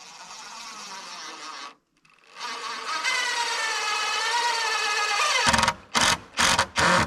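Power drill driving a screw into wood. There are two long runs of motor whine, the second louder and dropping in pitch at its end as the screw bites, then three short bursts of the trigger near the end to snug it tight.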